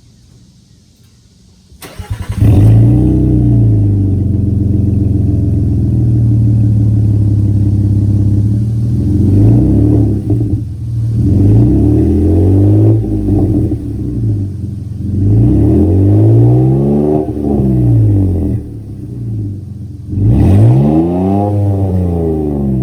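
2022 Nissan Frontier's 3.8-litre V6 starting about two seconds in, then idling through its exhaust and being revved four times, each rev rising and falling in pitch, the last two longer.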